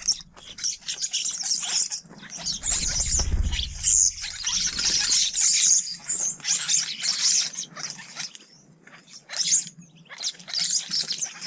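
Small garden songbirds chirping and twittering rapidly and continuously, many short high calls overlapping, with a brief low rumble a few seconds in.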